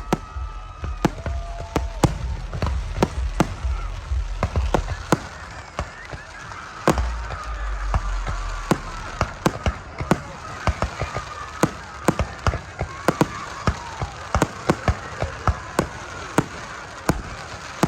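Fireworks going off in a rapid series of sharp pops and bangs, coming several a second in the second half, with low rumbling booms in the first part and crowd voices behind.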